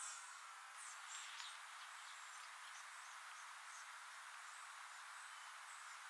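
Faint outdoor ambience: a steady hiss with scattered short, high bird chirps, most of them in the first couple of seconds.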